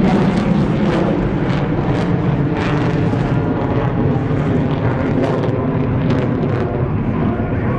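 Aircraft engine noise at an air show, loud and steady, slightly louder at the start.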